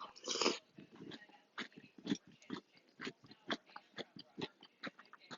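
Close-miked chewing of Cinnamon Toast Crunch cereal in milk: irregular crisp crunches and mouth clicks, about two a second, with a louder short wet noise near the start.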